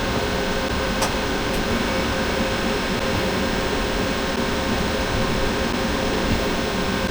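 A steady mechanical hum and hiss, with a sharp click about a second in and a fainter click half a second later.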